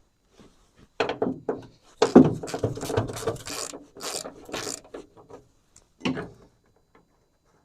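Hand socket ratchet clicking in irregular short bursts as bolts are backed out, heard from about a second in until near the end.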